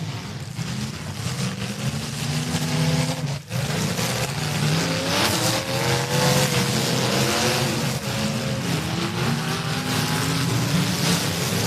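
Several demolition derby cars' engines revving hard, their pitches rising and falling and overlapping as the cars push against each other. The sound dips out briefly about three and a half seconds in.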